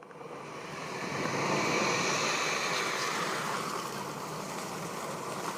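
A steady rushing noise with no distinct events, swelling over the first second or two and then holding level.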